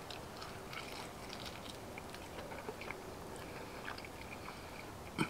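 A person biting and chewing a crispy smoked chicken wing: faint, scattered small crunches and mouth clicks.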